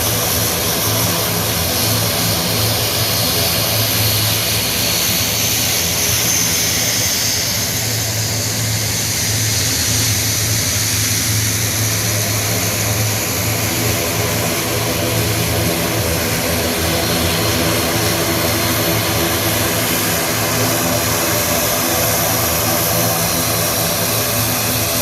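Twin-turboprop CN235 and CN295 transport aircraft flying over in formation: a steady propeller drone with a low hum and a hiss on top.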